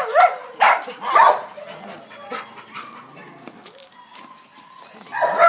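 A dog giving a few short, high barks and yips in the first second and a half, followed by quieter small clicks and shuffling.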